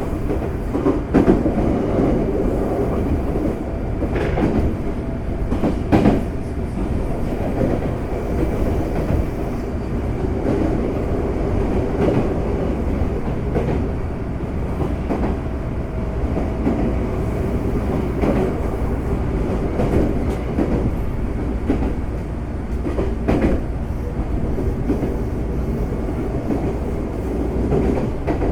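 Interior running sound of a Semboku Rapid Railway 5000 series electric train at speed: a steady rumble of wheels on rail, with scattered sharp clacks over rail joints.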